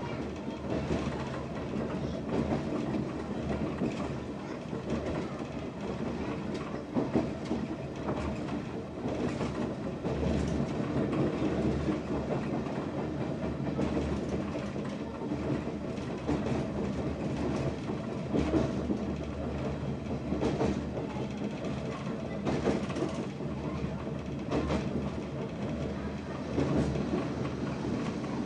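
Meitetsu 3400 series electric train running, a steady rumble with the irregular clack of wheels passing over rail joints.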